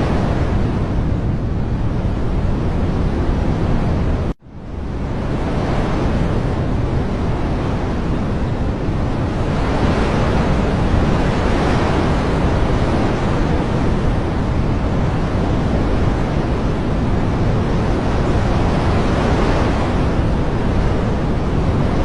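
Steady, dense roar of water-like nature ambience with slow, gentle swells. About four seconds in it cuts out almost to silence for an instant and fades back up, like a loop edit.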